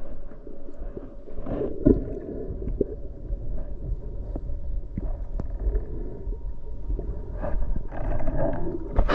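Muffled underwater noise heard through a diving camera: a steady low rumble with scattered clicks and gurgling flurries of bubbles, about a second and a half in and again near the end.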